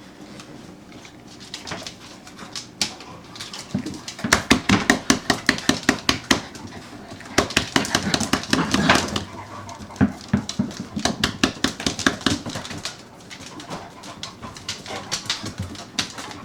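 Labrador puppies play-fighting on a hard floor: runs of quick, sharp yaps and scuffles, several a second, in two long bursts from a few seconds in and a lighter one near the end.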